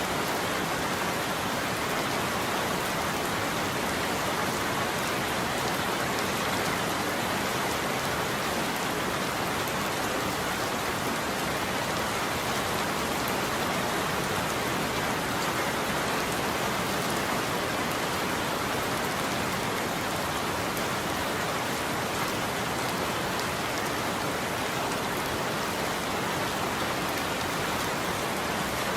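Steady heavy rain falling on a roof, an even hiss of drops with no thunder.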